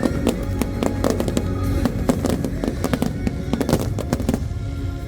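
Aerial fireworks bursting in rapid, overlapping volleys over music. The bursts thin out near the end.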